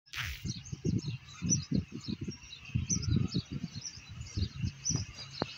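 Small birds chirping in quick, scattered calls, over irregular low rumbling gusts that are louder than the birdsong.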